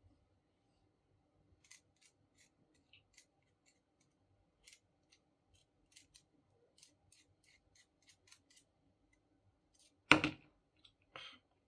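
Irregular light clicks and small snips of hand work with small parts or tools, then a sharp, loud clack about ten seconds in and a smaller one a second later.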